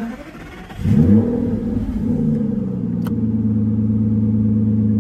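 A 2014 Aston Martin Vanquish's 6.0-litre V12 being push-button started. The starter cranks briefly, the engine catches about a second in and flares up in revs, then settles into a steady idle. A single sharp click sounds about three seconds in.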